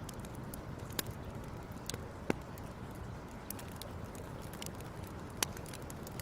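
Fire crackling: a steady low rumble of burning with irregular small snaps and three louder pops.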